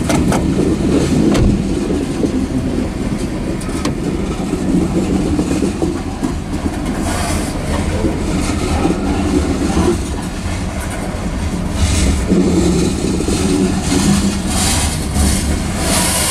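Covered hopper cars of a freight grain train rolling past: a steady loud rumble of steel wheels on rail, with scattered clicks and clacks as the wheels cross rail joints.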